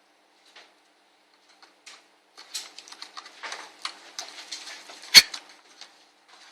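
Small clicks, taps and light scrapes of hands working inside an ASUS N53 laptop, unplugging ribbon-cable connectors from the motherboard. They start about two seconds in, with one sharper click a little after five seconds.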